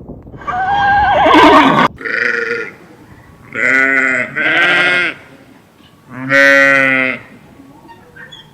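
A horse's whinny trails off, then after an abrupt cut come four separate bleats from farm livestock, each under a second long, with a steady pitch and a slight waver.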